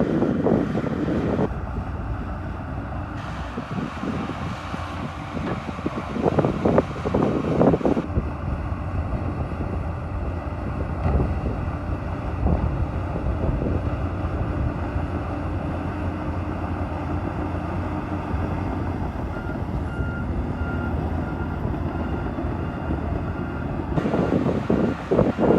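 Bulldozer's diesel engine running steadily under load, with louder noisy surges about seven seconds in and again at the end. A reversing alarm beeps repeatedly for a few seconds about three quarters of the way through.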